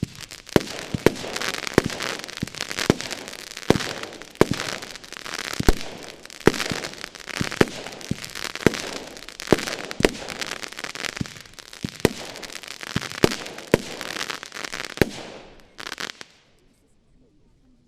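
Argento Giftzwerg 20 mm, 16-shot firework battery firing: a quick series of sharp shot reports over a dense crackling hiss for about sixteen seconds, stopping near the end.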